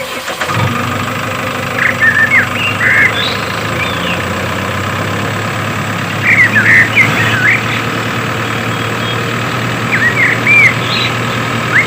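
Steady low engine hum of a toy tractor idling, starting about half a second in. Groups of short, high chirps sound over it about three times.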